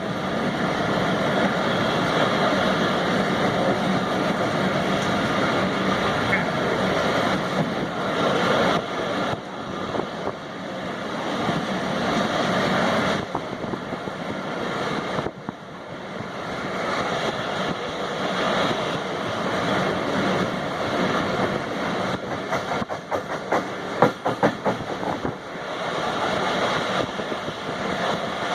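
Passenger express train passing through a station, its coaches rumbling and wheels clattering over the rails, with a cluster of sharper clacks about three-quarters of the way through.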